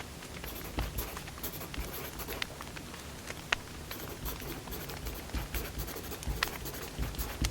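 Burning firewood crackling, with irregular sharp pops scattered through and the sharpest pop about three and a half seconds in.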